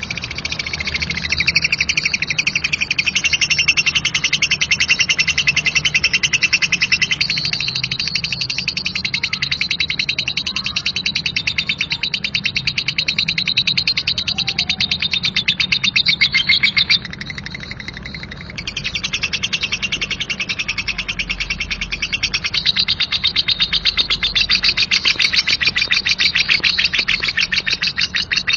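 Lovebird giving a long, harsh ngekek: a rapid, unbroken chattering trill of quickly repeated high notes. It weakens briefly about two-thirds of the way through, then goes on.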